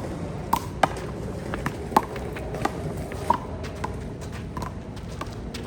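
Rubber handball smacked by hands and bouncing off the wall and court during a rally: about nine sharp smacks at uneven spacing, the loudest about two seconds in, over steady background noise.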